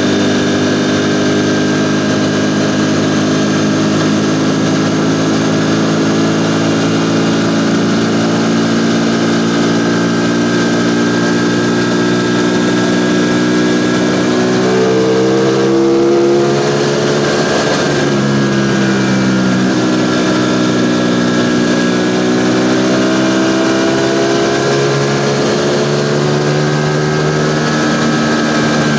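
Ducati Panigale V4 motorcycle's V4 engine running under way: its note sinks slowly, climbs sharply about halfway through, breaks off and drops, then climbs steadily again.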